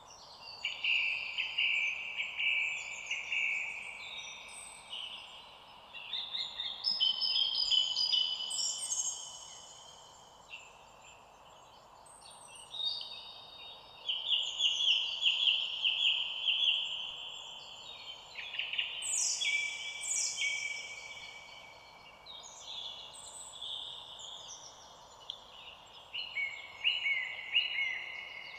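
Several songbirds singing in overlapping high chirps, whistles and trills that come and go in waves, over a steady faint hiss.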